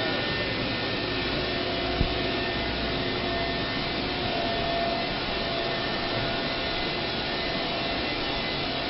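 Steady, even noise with faint steady tones underneath, and a single click about two seconds in.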